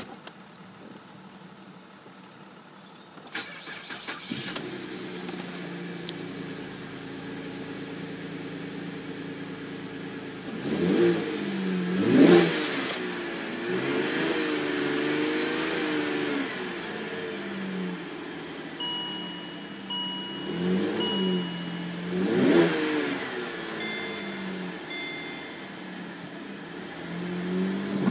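Holden Commodore VE station wagon engine, heard from inside the cabin, starting a few seconds in, then idling and being revved several times, with one longer held rev in the middle. A dashboard warning chime beeps repeatedly in the second half.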